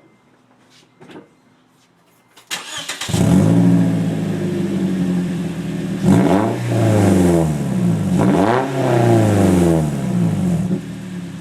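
2012 Scion xD's 1.8-litre four-cylinder engine started through a homemade straight-pipe axle-back exhaust in place of the muffler: it catches about two and a half seconds in and idles, is revved twice with the pitch rising and falling, then settles back to idle.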